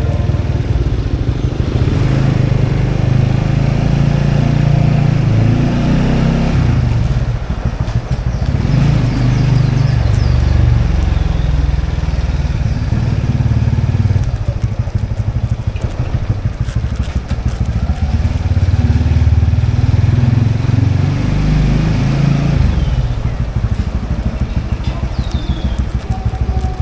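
Motorbike engine running while being ridden, its note rising and falling several times as the throttle opens and closes.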